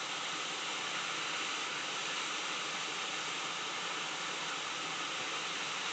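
Hot-air rework station blowing a steady hiss of hot air, reflowing the solder under a new PS5 HDMI encoder chip so that it settles flat.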